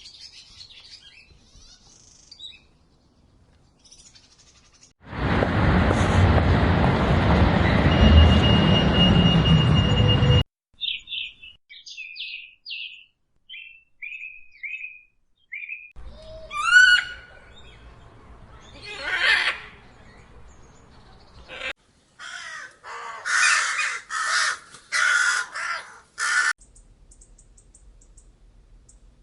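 A series of different bird calls, one after another: a loud hiss-like noise lasting about five seconds, then a run of short chirps, then a few longer calls and a quick set of pulsed calls.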